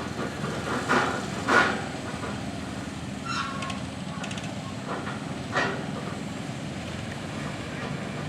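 Tractor engine running steadily, with a few sharp knocks.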